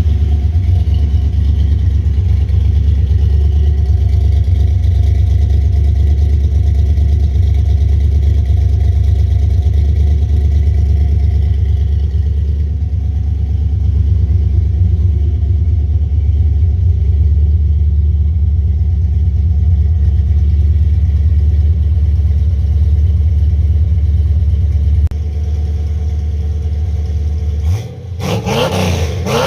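Car engine running steadily with a deep, low exhaust note. It drops in level near the end, then changes briefly in pitch, like a short rev.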